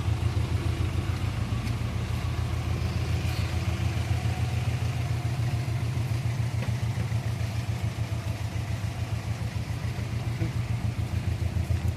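Car engine idling steadily, with an even low throb.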